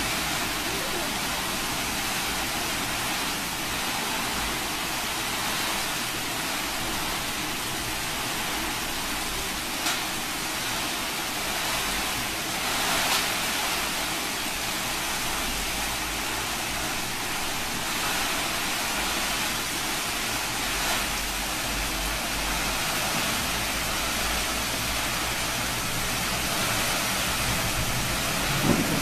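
Heavy rain pouring down in a strong windstorm: a steady, even hiss, with a low rumble of wind that comes and goes.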